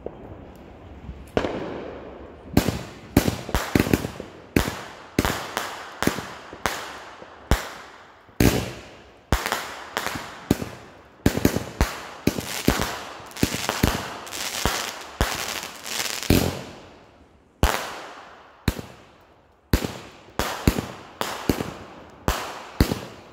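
Aerial consumer fireworks going off in a rapid string of sharp bangs, one to three a second, each trailing off. They start about a second and a half in, with a short lull about three quarters of the way through.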